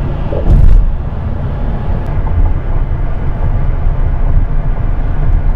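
Steady low rumble of a car's engine and tyre noise heard from inside the cabin while driving downhill, with a brief louder thump about half a second in.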